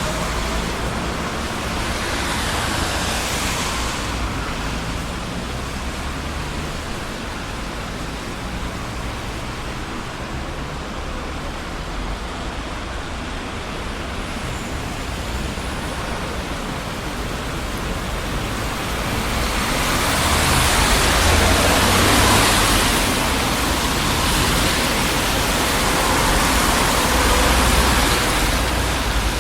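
Busy city street traffic: a steady wash of passing cars' tyre and engine noise with low rumble, quieter in the middle and swelling louder in the last third as more vehicles pass close by.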